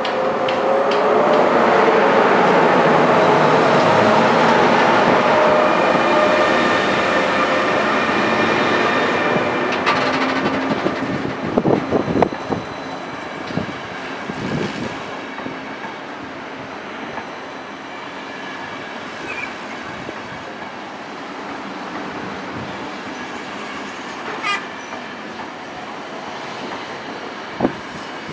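A train running through a station: a loud rumble with a faint steady whine that eases after about ten seconds, then a run of sharp knocks from the wheels over rail joints or points, settling to a quieter steady rolling noise with a couple of single clicks near the end.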